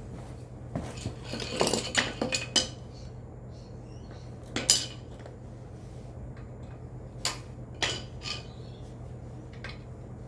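Metal hand tools clinking and tapping against each other and the bolt: a quick cluster of clinks about a second in, then a few single sharp clinks, while the transmission drain bolt on a motorcycle engine is worked loose. A steady low hum lies underneath.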